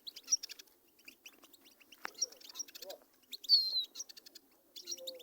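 Small cage finches (canaries, goldfinches and serins) chirping and twittering, many short quick notes overlapping, with one louder falling whistled note about three and a half seconds in. A single sharp click about two seconds in.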